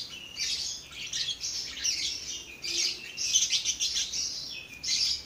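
A crowd of small birds chirping and twittering without pause, quick high-pitched calls overlapping one another; noisy.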